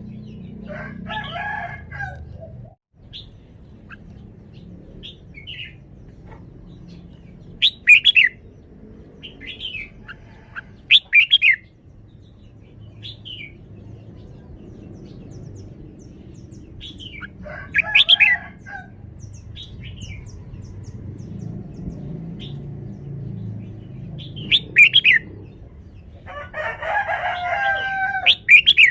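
Red-whiskered bulbul singing: short, loud, bright phrases every few seconds with fainter notes in between, and a longer, fuller phrase near the end.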